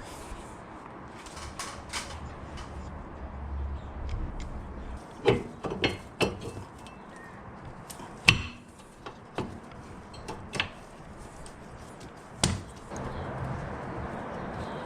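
Scattered knocks and clanks of tools and parts being handled during a front brake job, about ten separate strikes at irregular intervals, the loudest a little past the middle.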